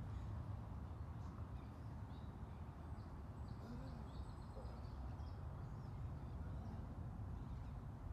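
Outdoor ambience: birds chirping and calling in short scattered notes, busiest midway, over a steady low rumble.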